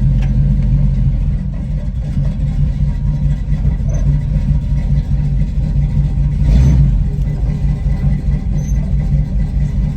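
1979 Chevrolet Impala's engine idling steadily, with a brief louder swell about two-thirds of the way through.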